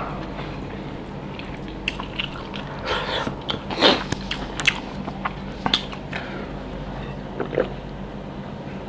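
Close-up chewing of a mouthful of rice and pork curry, with short wet smacks and clicks of the lips and mouth coming at irregular intervals.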